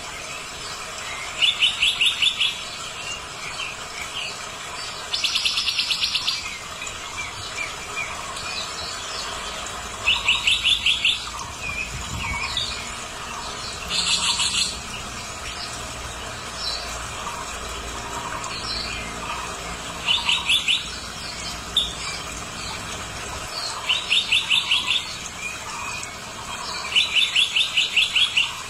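Bird calls: seven loud bursts of rapid chirping notes, each about a second long and a few seconds apart, with fainter chirps in between.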